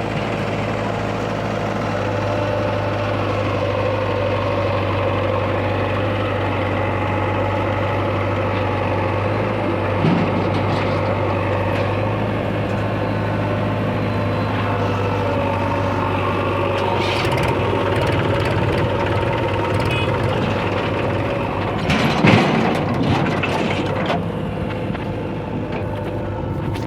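Heavy diesel earth-moving machinery engine running steadily under work, with a single knock about ten seconds in and a louder run of knocks lasting about two seconds near the end.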